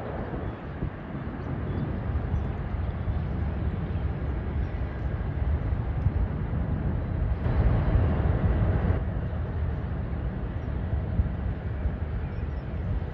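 Jet airliner engines making a steady rumble, swelling briefly about halfway through.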